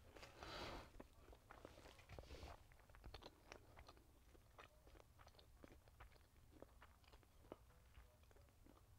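Faint chewing of a mouthful of food with the mouth closed: irregular soft wet clicks and smacks, with two soft rushes of air in the first few seconds.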